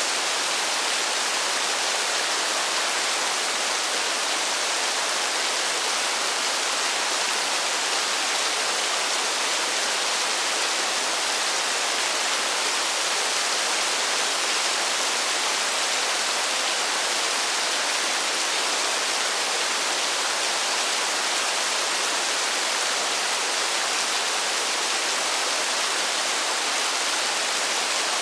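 Steady rain as an even, unbroken hiss, with no single drops, thunder or change in strength standing out.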